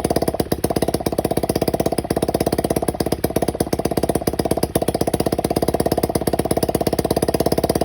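Modified Honda Dax ST50's small single-cylinder four-stroke engine running steadily just above idle, a fast even train of exhaust pulses. The engine has been brought back to life after long storage.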